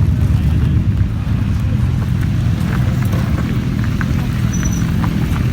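Motorcycle engines running at low speed, a steady low rumble with a few light ticks.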